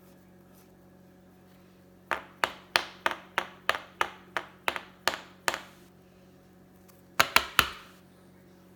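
A run of about a dozen sharp percussive hits, roughly three a second, then after a short pause three more in quick succession.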